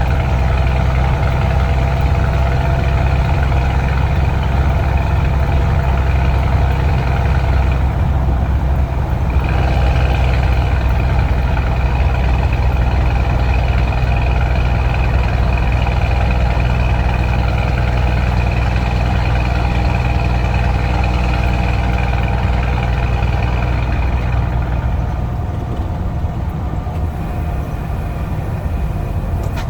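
Scania truck engine with a straight-through exhaust running in a steady low drone. The higher part of the sound drops out briefly about eight seconds in, and the engine eases off slightly near the end.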